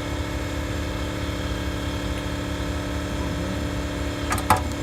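An engine idling steadily with an even low throb. A sharp metallic click comes twice near the end.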